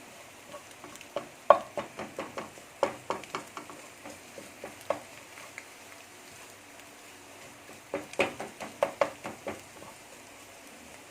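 Spatula clicking and scraping against a frying pan while an egg is scrambled, in two quick flurries, the second about eight seconds in, over a faint steady sizzle of frying.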